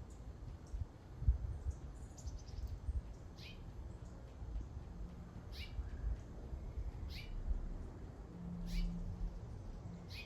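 Birds chirping: short, sharp, high calls that sweep downward, one every second or two, with a quick run of descending notes about two seconds in, over a low rumble.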